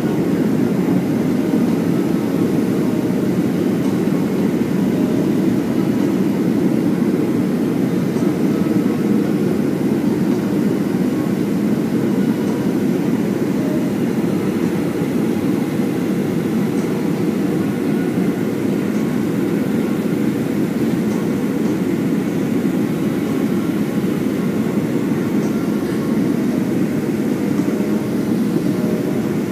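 Steady cabin noise of a Boeing 737-400 in flight, heard from inside the passenger cabin: a low, even rush of airflow and jet engine sound with no changes.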